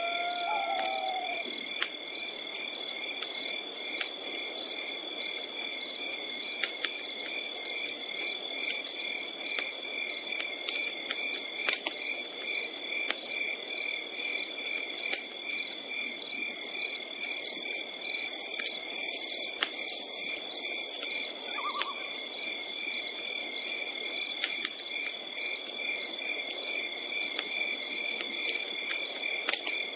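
Night insects trill in a steady chorus of evenly pulsing high chirps over a campfire that crackles with scattered sharp pops, which bunch together a little past the middle. A short gliding bird call comes right at the start.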